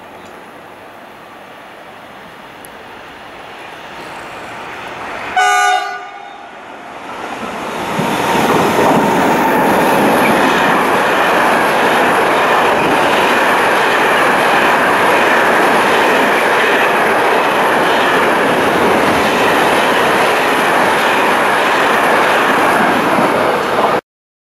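Mercitalia E483 electric locomotive approaching with rising rail noise, then one short, loud horn blast about five seconds in. A long freight train of container flat wagons follows, passing at speed with loud, steady wheel-on-rail noise and clatter, which stops abruptly near the end.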